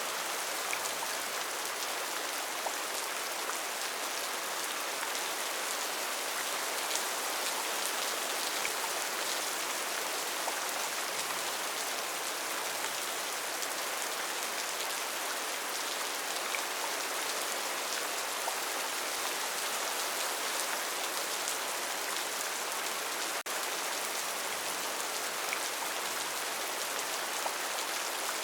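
Rainforest rain falling steadily: an even hiss of rainfall with scattered individual drops standing out, and a momentary dropout about two-thirds of the way through.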